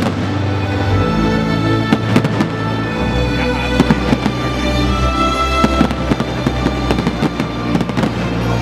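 Aerial fireworks bursting and crackling in quick, irregular succession, mixed with loud music playing throughout.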